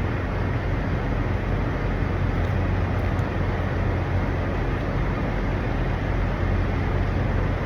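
Steady low drone of idling diesel truck engines with a constant low hum and road noise, unchanging throughout.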